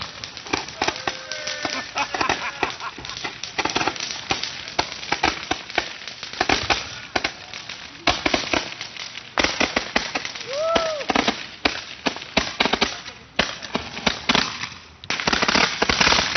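Firecrackers going off in rapid, irregular strings of sharp pops and crackles, with a short rising-then-falling tone about ten and a half seconds in.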